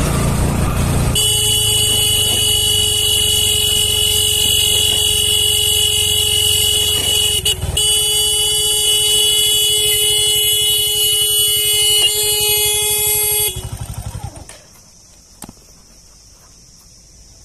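A loud, steady horn-like blare with a short break about seven and a half seconds in. It cuts off with a brief flutter about thirteen seconds in, leaving faint steady cricket chirring.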